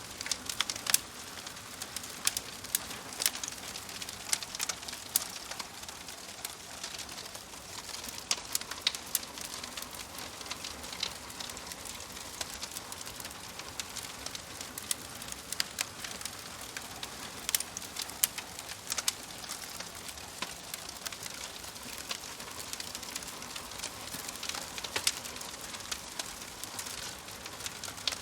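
Wood fire burning in a fireplace: a steady hiss with frequent, irregular sharp crackles and pops from the logs.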